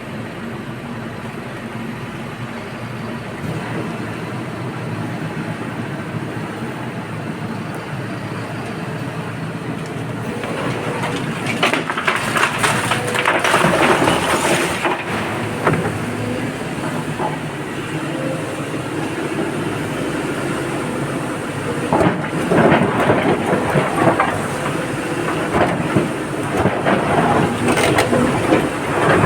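Excavator engine running steadily, with two long stretches of loud, irregular clattering from rock and earth, one about a third of the way in and another near the end, as the bucket digs and loads a dump truck.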